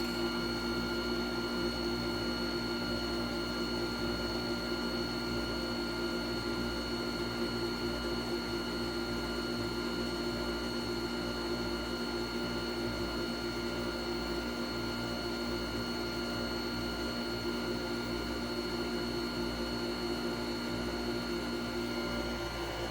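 Steady machine hum made of several constant tones over a low rumble; one low tone drops out near the end.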